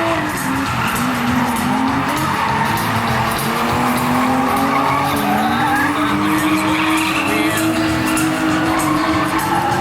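BMW drift cars running in tandem, engines held high in the revs with the pitch wavering up and down, over tyres squealing and skidding.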